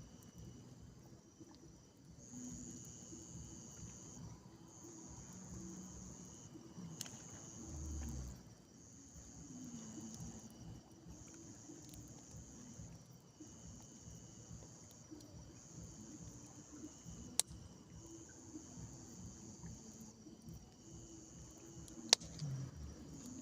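Night insects trilling: a high, even trill repeated in bursts about a second and a half long with short gaps, over a fainter steady high tone. Two sharp clicks stand out, one a few seconds before the end and one near the end.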